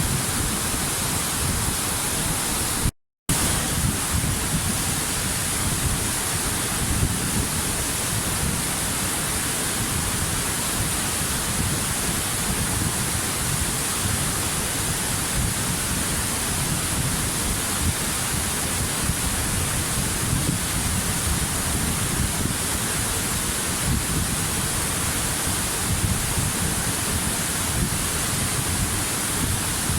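Waterfall rushing: a steady, dense roar of falling water with no change in strength. It cuts out for a split second about three seconds in.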